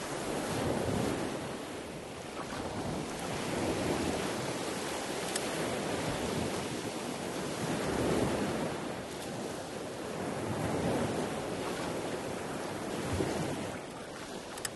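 Sea waves washing, with wind buffeting the microphone; the rush swells and eases every three to four seconds.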